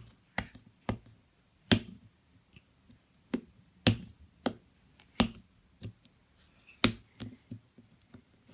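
Scattered sharp clicks and crackles, about a dozen at irregular intervals, from the plastic packaging of an LOL Surprise toy ball being handled and opened by hand.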